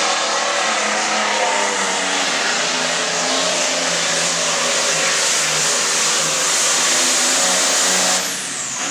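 Hot farm class pulling tractor's turbocharged diesel running flat out under load down the pulling track, loud and steady with a high hiss over the engine note. About eight seconds in the engine drops off and a high whine falls away.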